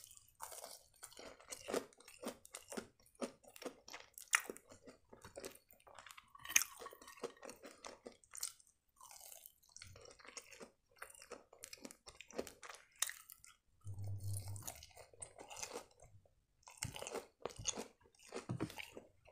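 Close-miked chewing of a fish-filled pastry triangle, with crunching from the crust and irregular wet mouth clicks and smacks.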